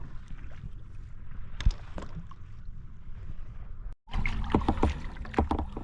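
Wind on the microphone and water splashing around a kayak on a choppy sea, with scattered small knocks and one sharper knock a little over a second and a half in. The sound drops out for an instant around four seconds, then comes back louder.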